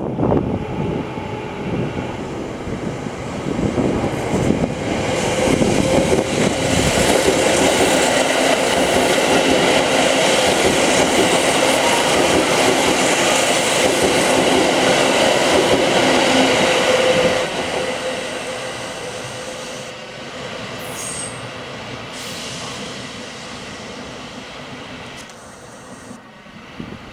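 Kintetsu electric train running along the station track, loud with a steady hum for about ten seconds, then fading away.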